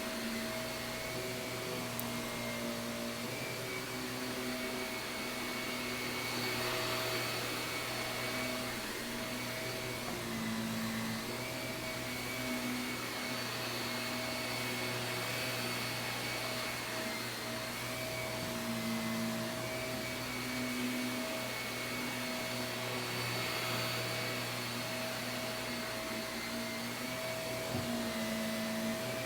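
Shark vacuum cleaner running steadily on carpet, its motor hum shifting slightly in pitch now and then as it is pushed along.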